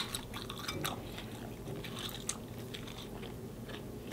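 Close-miked chewing of lobster meat: faint wet mouth sounds and small clicks, with one sharp click right at the start.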